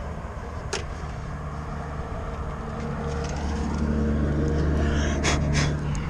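A low, steady motor or engine hum that grows louder over the second half and then drops away near the end, with a few sharp clicks of wires and parts being handled.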